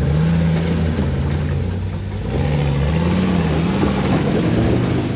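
Rock crawler's engine pulling under throttle on a rock climb, its note rising and falling a few times as the throttle is fed in and eased off.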